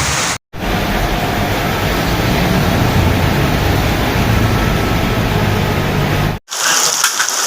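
Heavy rain pouring down, a loud steady hiss with a deep rumble underneath. It cuts abruptly to silence twice, about half a second in and again near the end.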